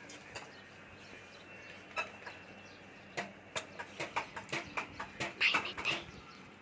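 A person chewing rice with open-mouthed smacking: a few single smacks, then a quickening string of short smacks about three or four a second in the second half, loudest near the end.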